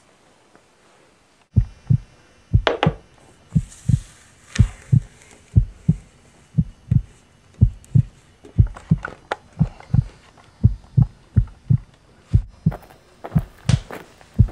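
Heartbeat sound effect: low double thumps, about one beat a second, starting a second and a half in, with a few sharper clicks mixed in near the end.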